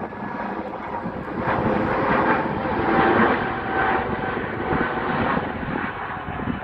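Airbus A320neo jet engines at takeoff thrust as the airliner departs: a steady jet rumble with a faint whining tone through it, swelling a little midway.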